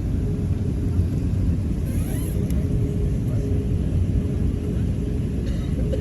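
Steady low rumble of cabin noise inside an Airbus A380 airliner, with a faint steady hum above it.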